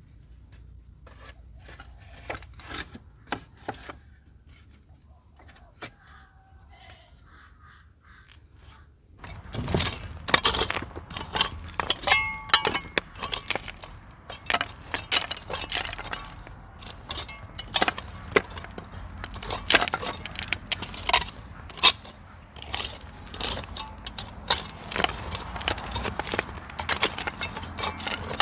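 Dry sticks and brush being handled and snapped: scattered clicks at first over a faint steady high tone, then, about nine seconds in, a dense, louder run of cracks, snaps and scrapes.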